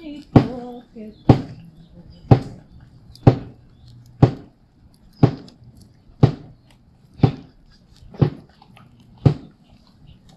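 A drum struck in a slow, steady beat, about once a second, ten strikes, accompanying a ceremonial chant. A singing voice fades out in the first second.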